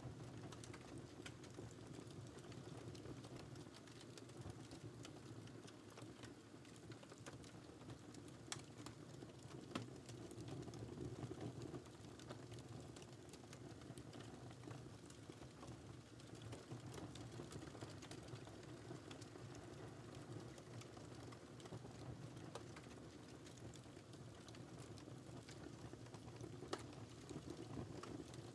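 Wood fire burning in a fireplace: a quiet, steady low rumble of flames with scattered sharp crackles and pops, a few louder ones about eight and ten seconds in and near the end.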